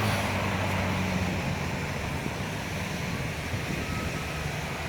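Jet airliner engine noise at an airport: a steady rumble with a low hum that slowly fades.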